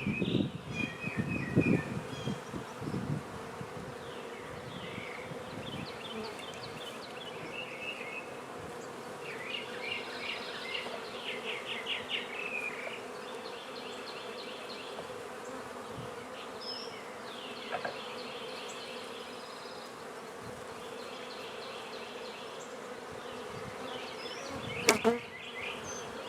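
Honey bees buzzing steadily around an open hive, with a few knocks from handling the hive in the first seconds and two sharp knocks near the end.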